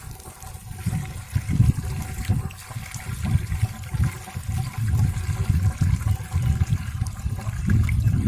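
Water rushing and splashing steadily, surging unevenly.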